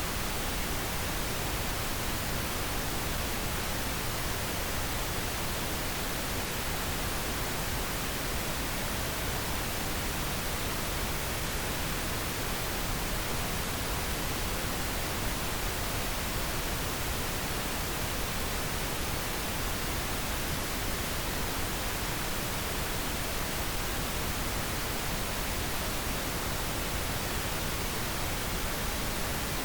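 Continuous synthetic pink noise: a steady, even hiss that never changes.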